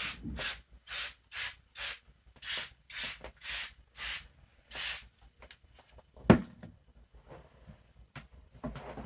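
Water spray bottle misting hair: about ten short hissing squirts, roughly two a second, to wet the hair, stopping about five seconds in. A sharp knock follows about a second later, then a few faint clicks.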